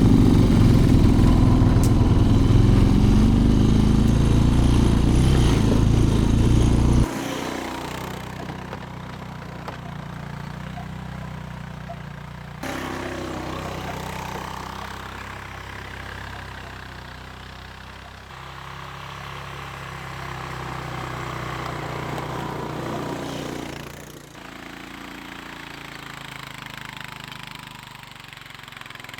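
ATV engine running, loud and close for about the first seven seconds, then much quieter, with its level changing abruptly a few times.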